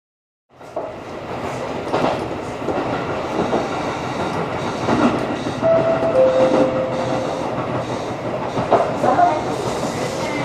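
Electric train running on the rails, wheels clattering over rail joints with a few knocks, and a brief squeal about halfway through. The sound cuts in about half a second in.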